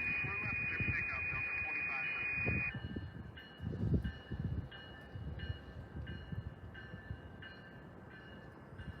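An electronic tone held steady for a little under three seconds, then beeping on and off about every two-thirds of a second, over a low rumble.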